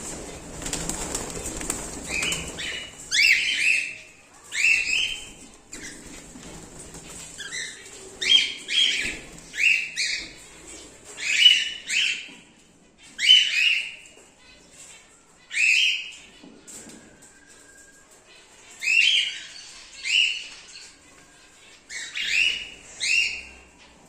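Cockatiels calling over and over, short chirping calls coming every second or two, with a rustle of wing flapping in the first couple of seconds.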